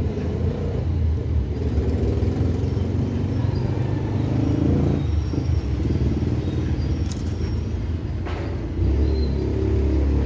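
Steady low rumble of a running vehicle engine, growing heavier about nine seconds in, with a short sharp click a little after eight seconds.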